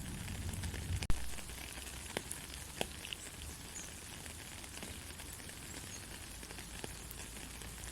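Soft, steady rain, an even hiss with scattered drops ticking on a surface; a sharp click about a second in is the loudest sound, with a few fainter ticks later.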